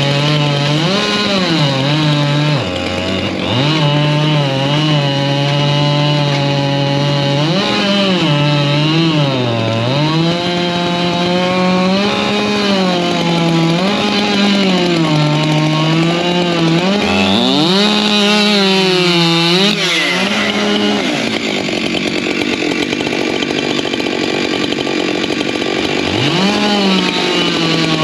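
Two-stroke chainsaw cutting firewood at full throttle, its engine pitch sagging again and again as the chain loads up in the wood and climbing back as it frees. There is a deeper drop and recovery a little past halfway, then a steadier stretch near the end.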